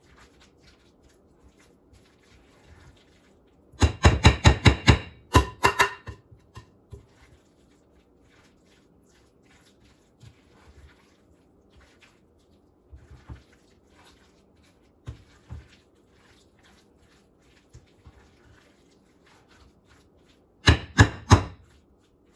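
Chicken salad being folded in a mixing bowl with a utensil: faint scrapes and squishes, broken twice by a quick run of loud knocks against the bowl, first about four seconds in and again near the end.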